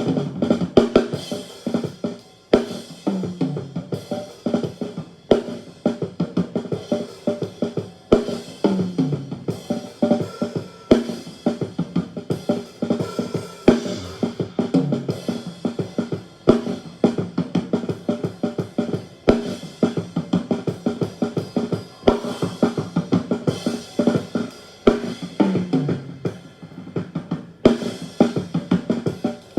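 Drum kit playing a steady groove of kick, snare and cymbals, played back from a multitrack recording during a virtual sound check while the snare-top channel is EQ'd.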